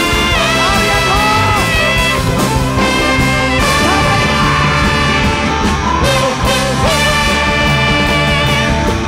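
A large free-jazz big band playing loudly live: held saxophone and trumpet lines over bass and drums.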